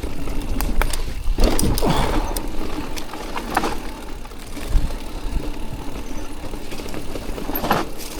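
Electric mountain bike being ridden over a wet trail: a steady rumble of tyres and wind on the microphone, with frequent rattles and clicks from the bike and a couple of louder surges.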